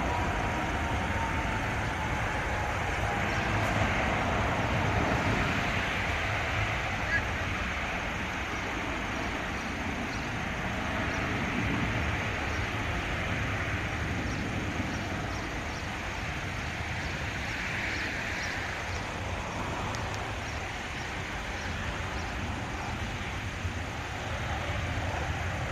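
Jet noise from an Airbus A380-841's Rolls-Royce Trent 970 engines as the airliner comes in to land: a steady rushing roar, with a falling whine near the start.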